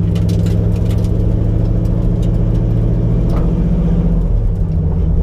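The 1989 Mustang GT's 5.0 V8 runs at low, even revs, heard from inside the cabin. The engine note shifts slightly about four and a half seconds in.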